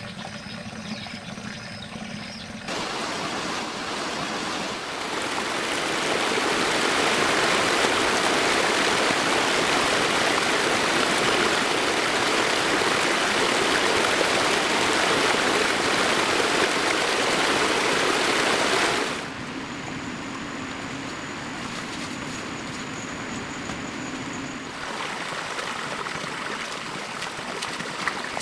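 Rushing water, like a stream, runs steadily and grows louder over the first few seconds. About two-thirds of the way through it drops suddenly to a quieter flow, with a faint thin high tone over it for a few seconds.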